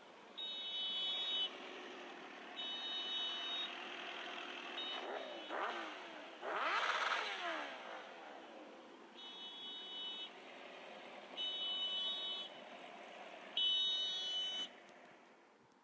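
Road traffic with a motor vehicle passing about six to seven seconds in. Over it, a high-pitched steady tone sounds for about a second at a time, six times.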